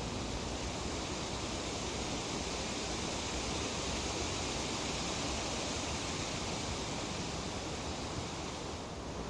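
Breeze rustling through tree leaves as a steady, even hiss, swelling slightly a few seconds in and easing a little near the end.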